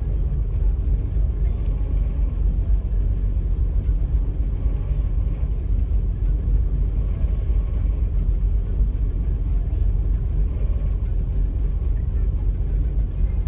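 Carbureted gasoline Toyota Land Cruiser 60's 2F straight-six idling steadily on choke during a cold-weather warm-up, heard from inside the cabin as a low, even rumble.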